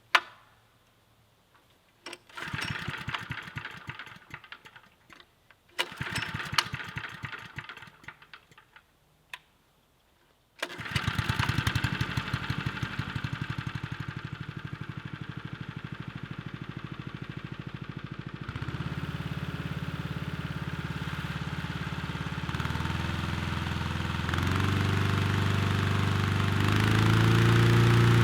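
A loud humming drone brought on by strong wind. It comes in two swelling surges, then sets in suddenly and holds as a steady hum, stepping up in pitch several times near the end.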